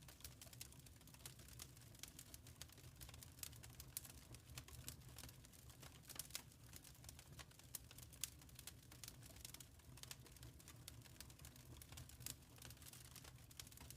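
Faint wood fire crackling in a fireplace: irregular small snaps and pops a few times a second over a low steady rumble.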